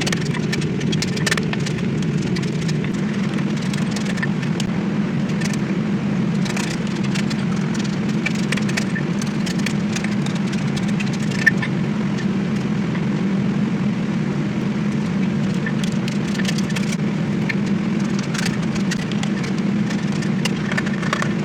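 A workshop machine running steadily with a low hum. There are scattered light ticks throughout and one sharp click about eleven and a half seconds in.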